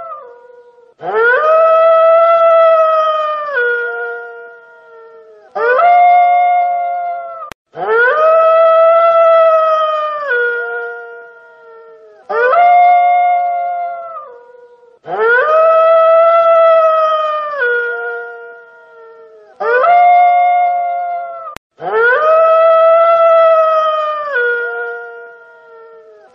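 Wolf howling: seven howls, shorter and longer ones alternating, each held at one steady pitch and then dropping at its end. The same pair of howls repeats identically about every seven seconds.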